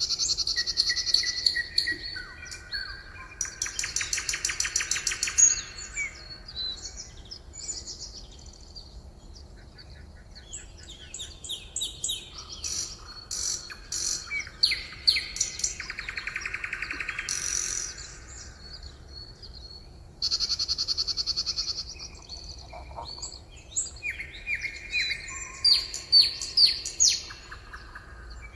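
Several songbirds singing and chirping over one another, with fast buzzy trills and quick sweeping whistled notes.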